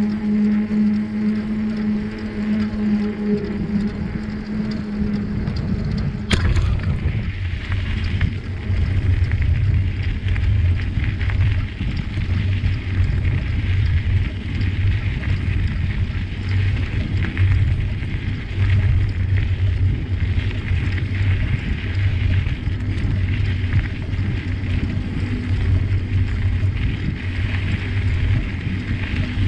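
Riding a bicycle along a forest trail: a continuous low rumble and wind buffeting the microphone. For the first six seconds a steady hum runs beneath it, cut off by a sharp click.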